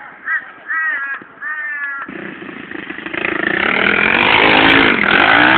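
A bird gives a string of short, harsh calls, then about two seconds in a pit bike's small motorcycle engine starts up close by. It grows louder over the next two seconds and runs loud and steady to the end.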